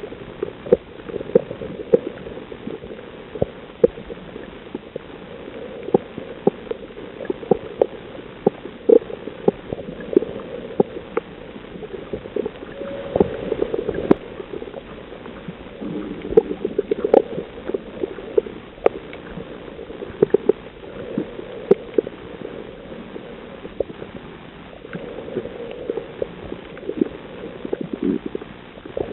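Underwater sound on a coral reef: a steady muffled wash with many sharp, irregular clicks and pops, and now and then a short gurgling swell.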